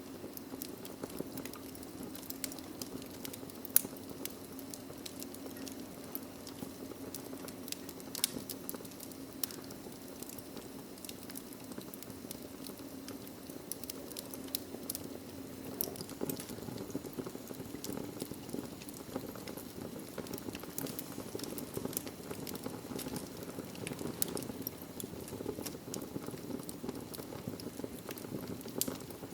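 Logs burning in a fireplace: a steady low rush of flame dotted with frequent small crackles and pops, one sharper pop about four seconds in.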